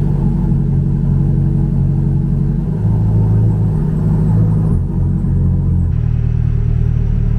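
Chevrolet C8 Corvette's V8 running at low speed as the car creeps up onto wooden 2x4 blocks, its note shifting a few times.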